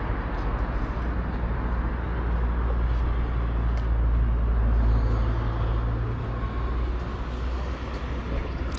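A motor vehicle passing: a low engine rumble that builds to its loudest about halfway through, then fades.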